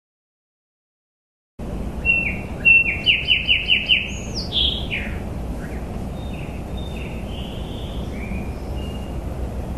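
Silence for about a second and a half, then a bird calling over steady outdoor background noise. The bird gives a quick run of about six short falling notes, then a higher falling call, then fainter calls.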